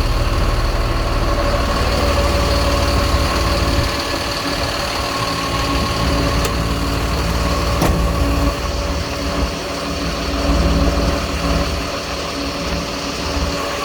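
Jet fuel truck's engine idling steadily, with a steady whine over it and a low rumble that eases off about four seconds in. Two sharp clicks come a second and a half apart, midway through.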